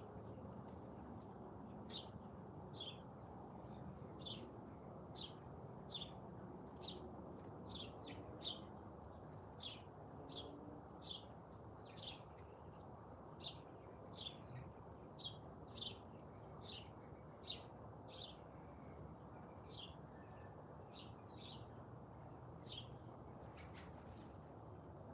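Garden bird chirping: short high notes repeated a little more than once a second, sometimes in quick pairs, over a faint steady low background hum.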